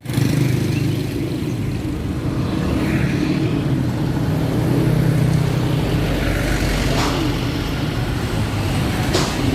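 Motor vehicle engine running steadily with a low, even hum, with two brief sharp sounds in the second half.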